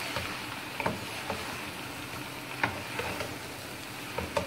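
Spaghetti chowmein with chicken and vegetables sizzling in a non-stick pan as it is tossed and stirred, a steady frying hiss with a few sharp knocks of the spatula against the pan.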